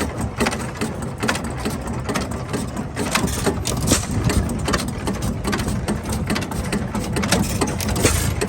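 1916 Sears, Roebuck and Co. gasoline engine running, a steady low rumble with frequent irregular clicks and clatter.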